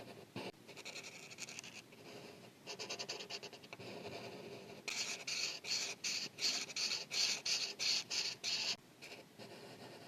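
Marker tip scratching on paper in quick back-and-forth coloring strokes, a few short light runs at first, then a louder, steady run of about three strokes a second that stops near the end.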